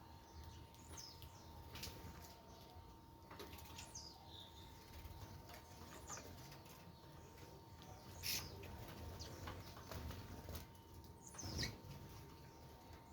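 Small wild birds at a feeder: scattered short, falling chirps and calls with brief wing flutters, faint overall, with two louder calls about eight and eleven and a half seconds in.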